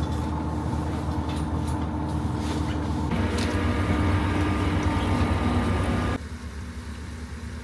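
Diesel railcar engine running, a steady low drone with a hum, heard from inside the train. It grows louder about three seconds in, then drops suddenly to a quieter idle-like level near the end.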